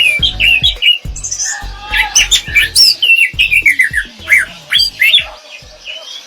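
Orange-headed thrush singing a fast, varied run of whistled notes with quick rising and falling glides, thinning out near the end.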